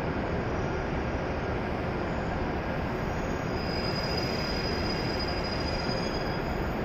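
Steady hum and hiss of a standing E7 series Shinkansen at the platform, its onboard equipment running while it waits to depart. A thin, high steady whine rises above it about halfway through and fades near the end.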